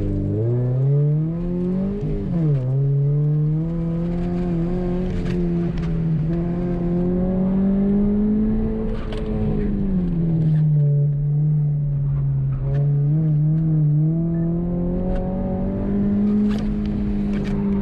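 Subaru BRZ's flat-four boxer engine, through an aftermarket axle-back exhaust, on a hard autocross run: revs climb from the launch, drop sharply about two and a half seconds in as it shifts up, then rise and fall again and again as the driver accelerates and brakes through the cones.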